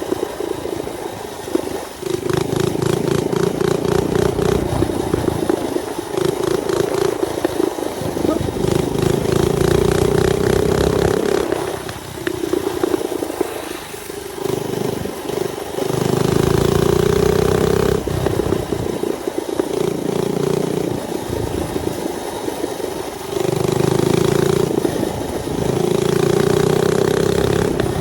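Mini bike's small engine running under way, its throttle opened and eased off several times so the engine sound swells and drops back, with wind noise rushing over the microphone.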